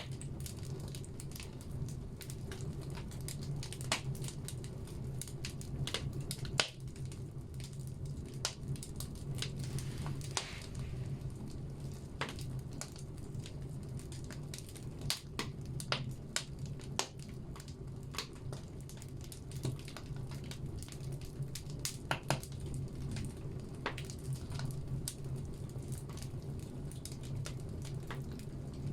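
Firewood burning in a wood stove: irregular sharp crackles and pops, some louder than the rest, over a steady low hum.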